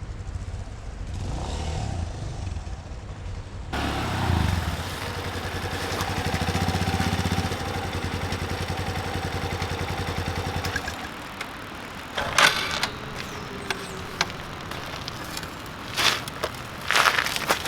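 Yamaha Serow 250's single-cylinder engine running steadily, its pitch rising briefly about four seconds in. The engine sound stops about eleven seconds in, and a few sharp knocks and clatters follow.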